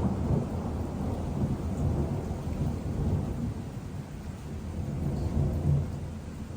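Rolling thunder: a long, low rumble that swells and ebbs, fading toward the end.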